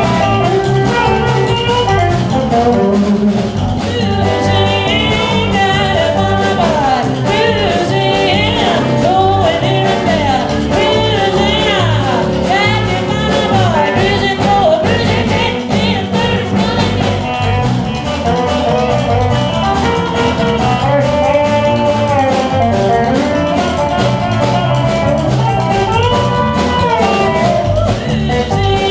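A live band playing a rock-and-roll/blues number: electric guitar and drum kit with a steady beat, and singing over it.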